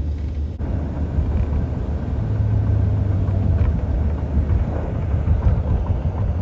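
Highway traffic: a steady low rumble of trucks and cars on the road, swelling a little about two to four seconds in.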